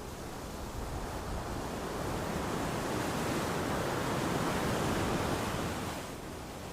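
Ocean waves breaking on a beach: one wave's rush swells up over a few seconds and falls away near the end.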